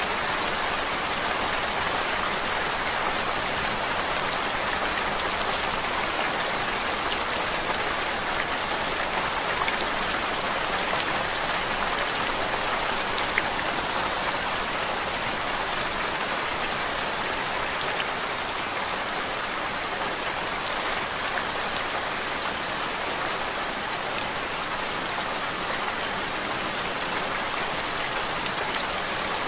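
Steady rain, an even hiss with a fine patter of drops, unchanging throughout, as a continuous white-noise background track.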